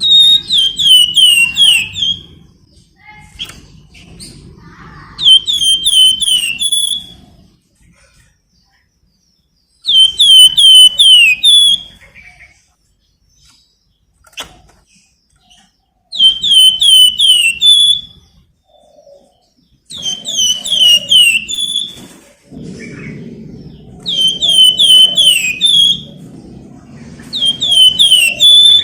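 Flamboyan songbird singing: repeated loud phrases of about two seconds, each a rapid run of about five high, slurred whistled notes, coming roughly every four to five seconds with short silences between.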